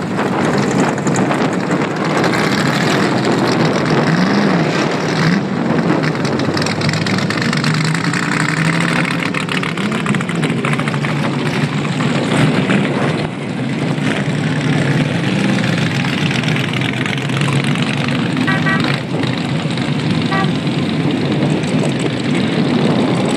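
V8 engines of a line of Shelby Cobras running and revving as the cars pull away one after another, the pitch rising and falling again and again. Short dotted tones sound briefly a few seconds before the end.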